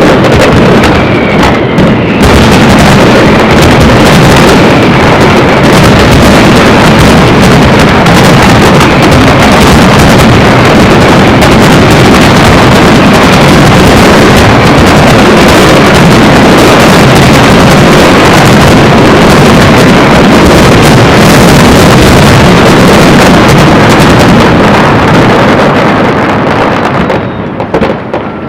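Dense aerial fireworks barrage, bursts following so fast that they merge into one continuous rumbling din that overloads the recording, thinning out about a second before the end.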